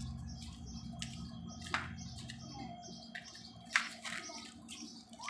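Small bird chirping: many short, high chirps in quick succession. Two sharp knocks cut in, one about a third of the way through and a louder one about two-thirds through.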